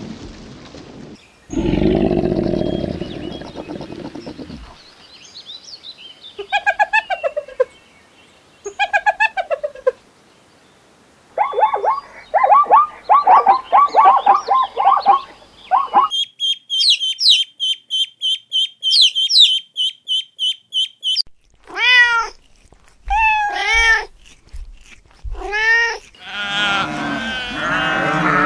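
A string of different animal calls, one clip after another: rapid repeated yelps, then high repeated chirps, then several arching calls that rise and fall in pitch. Goats bleat near the end.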